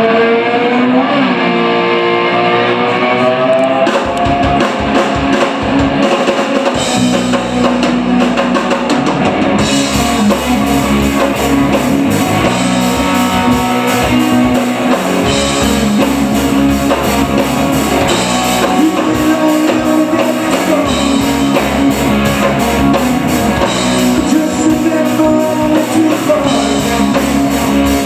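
Live rock band playing an instrumental intro. An electric guitar starts alone with sliding, bending notes; drums come in about four seconds in, and the full band is playing by about ten seconds.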